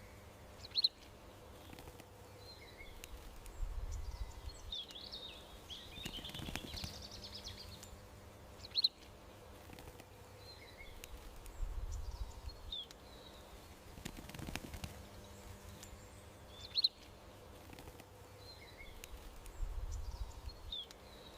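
Garden songbirds chirping and twittering. One sharp high chirp stands out about every eight seconds, over a low rumble that swells and fades at a similar spacing.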